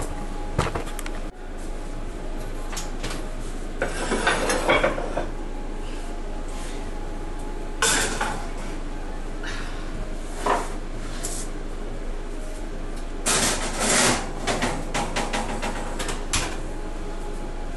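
Kitchen clatter of pans and utensils: scattered knocks and scrapes in several clusters, over a steady background hum.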